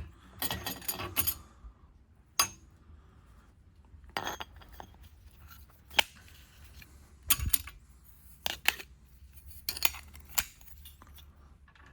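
Metal parts of a two-stroke motorcycle clutch clinking and clicking as they are handled and set down during teardown. There is a quick cluster of clinks near the start, then single sharp clicks every second or two.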